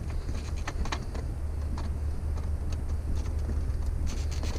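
Rummaging through a pile of curbside junk: scattered light clicks and rattles of items being handled, over a steady low rumble.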